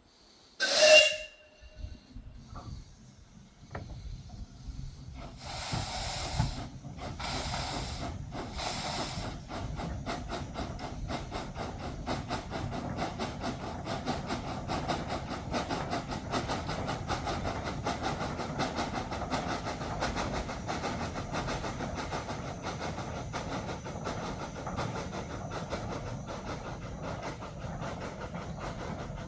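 Steam locomotive giving a short, loud whistle, then three slow, heavy exhaust blasts as it starts off, settling into a fast, steady beat as it gets under way.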